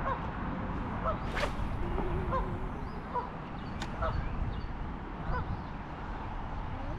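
Birds calling over and over in short, honk-like notes, one or two a second, over a steady low rush of moving water and air, with a single sharp click about a second and a half in.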